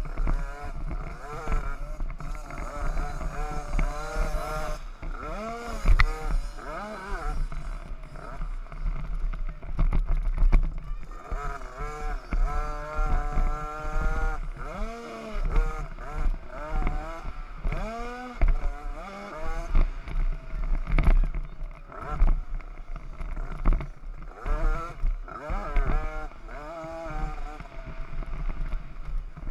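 50cc youth motocross bikes racing, their small engines revving up and dropping back again and again as they accelerate and shift through the gears.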